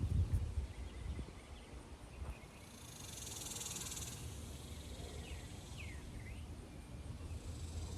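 Garden ambience. Low thumps and rustling from movement on the ground come at the start. About three seconds in, a high insect buzz lasts a second or so, and a few short falling bird chirps follow around the middle.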